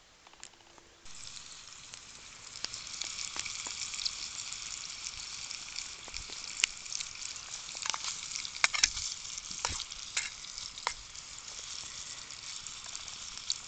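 Rhubarb pieces sizzling as they fry in coconut oil in a pan over a campfire: a steady hiss that starts suddenly about a second in, with many sharp pops and spits.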